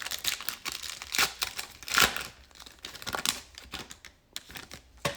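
Plastic-foil trading card pack wrapper crinkling in irregular crackles as it is handled and torn open.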